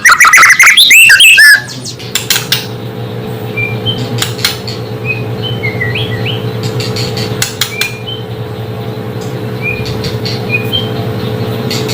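White-rumped shama (murai batu) singing loudly with rapid, varied whistled phrases that stop about a second and a half in. Then a steady low hum continues, with scattered sharp clicks and a few faint short chirps.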